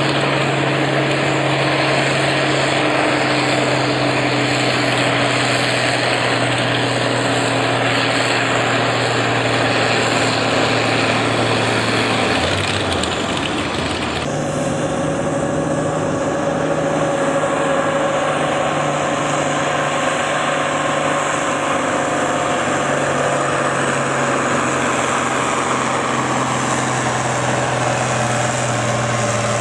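Loud engine running at a steady speed, with an abrupt change a little under halfway through, then running steadily again.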